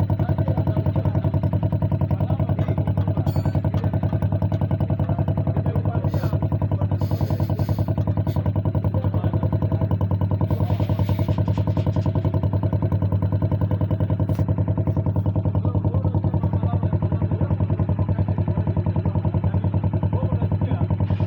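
Motorcycle engine idling steadily with an even, rapid beat and no revving. A few brief hissing noises come through around the middle.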